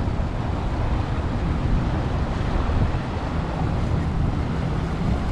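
Steady low rumble of boat engines running on the water, mixed with wind buffeting the microphone.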